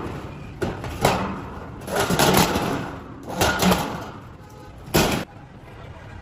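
A series of irregular knocks and clattering handling noises, with a short burst about five seconds in that cuts off suddenly.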